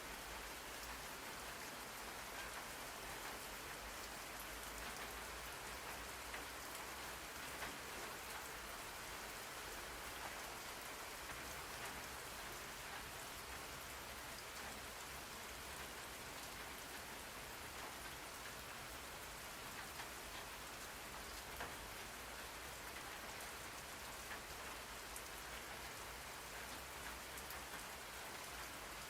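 Steady rain falling on a surface, an even hiss with scattered tiny drop ticks.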